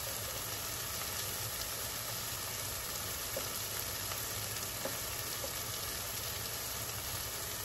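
Sliced onions and mushrooms frying in butter in a frying pan, cooking down with a steady sizzle and a few faint crackles.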